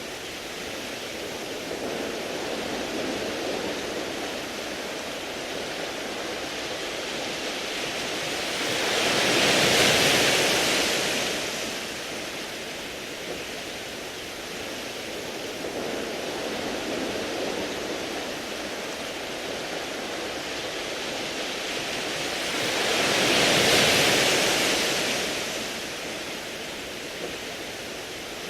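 Sea waves washing onto a beach of smooth round pebbles, a steady wash of surf with two larger waves swelling and falling back about fourteen seconds apart.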